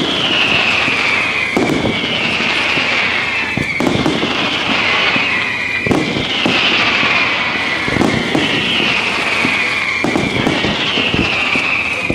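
Aerial firework shells bursting in a steady barrage, with bangs every second or two. A high whistling hiss slides down in pitch over and over.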